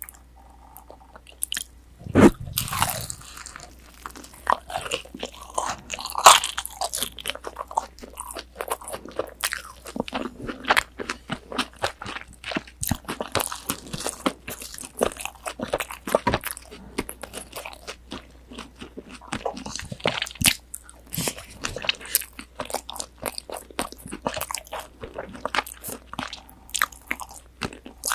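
Close-miked bite into a crisp breaded, deep-fried pork cutlet (tonkatsu), about two seconds in, followed by steady crunchy chewing of the fried crust.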